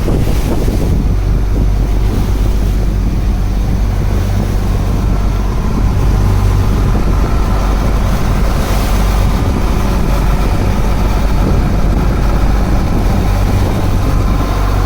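Wooden fishing boat's engine running steadily with an even low hum, with wind buffeting the microphone.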